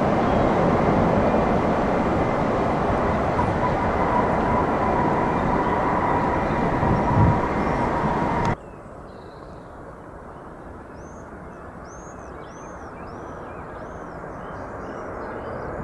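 Loud, steady jet airliner engine noise with a thin whine, cut off abruptly about eight and a half seconds in. After it, a quieter distant jet rumble slowly grows louder while a bird chirps over and over.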